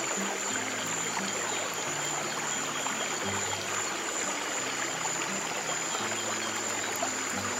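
Steady rushing of a stream, with slow, soft low piano notes underneath and a thin steady high-pitched tone above.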